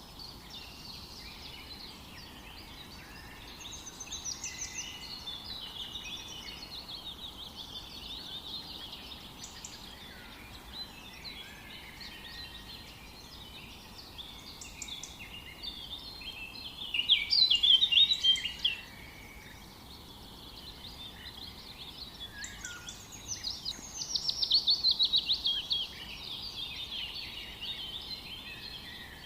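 Several songbirds singing together in a mix of chirps and trills, over a faint steady background hiss. Two louder bursts of fast repeated notes stand out, about seventeen seconds in and again about twenty-four seconds in.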